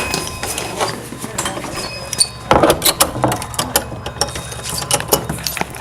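A run of irregular clicks and clatters, with a louder burst of clattering about two and a half seconds in.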